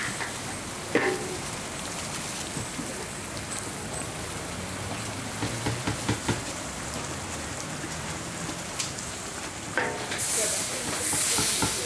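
Spice paste frying in hot oil in a large metal wok: a steady sizzle, with a few knocks of the metal spatula and ladle against the wok. The sizzle swells louder near the end as a ladle of powder goes into the pan.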